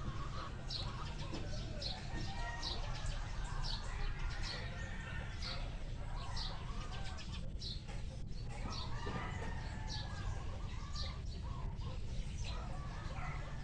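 Chickens clucking, with a short high chirp repeating about once a second, over a steady low rumble.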